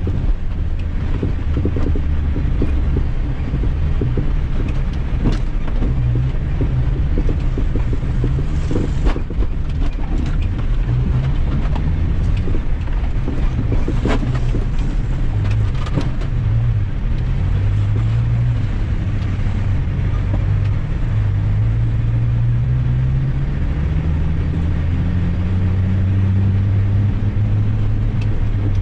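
Motor vehicle engine running under load, its pitch rising and falling as it revs and climbing steadily near the end, with scattered knocks and rattles.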